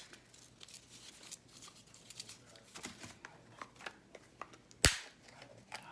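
Rolls of paper stickers handled by hand: light paper rustling and small scattered clicks, with one sharp, loud click just before five seconds in.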